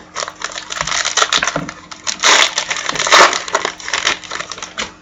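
A foil trading card pack wrapper being torn open and crinkled by hand, with two louder bursts of crackling about two and three seconds in.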